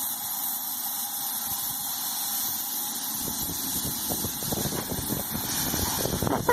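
Small live-steam locomotive on 7½-inch gauge track hissing steadily. About three seconds in it starts working, with quick, irregular exhaust chuffs that grow more frequent.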